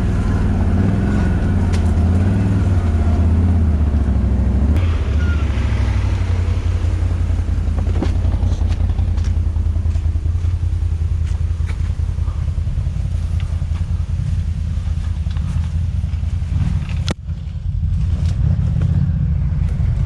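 ATV engine running under way off-road, its pitch rising and falling with the throttle for the first few seconds, then running steadier. The level dips briefly near the end before picking up again.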